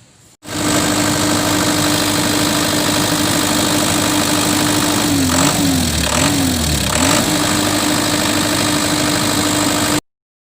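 Small generator engine running steadily. It comes in suddenly, its pitch sags twice briefly about halfway through, and it cuts off abruptly near the end.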